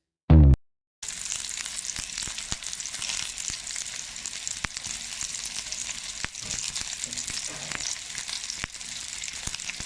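Food sizzling as it fries in hot oil: a steady high hiss with a few sharp pops, starting about a second in after a brief snatch of music.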